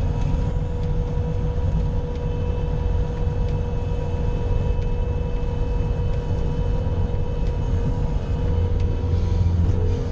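Bobcat skid steer engine running steadily while plowing snow, a continuous low rumble with a steady whine above it.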